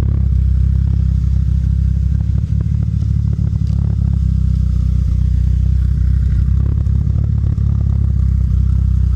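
Cammed 4G63 turbo inline-four in a 1989 Colt running at a steady idle, heard through a full 3-inch exhaust with a Vibrant muffler. It gives a deep, even exhaust note.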